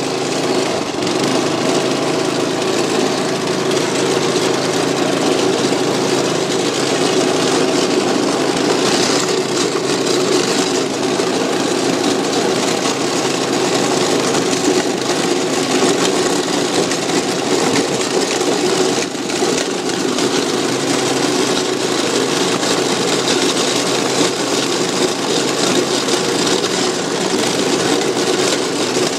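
Small engine running steadily under way, with a dense rushing noise over it.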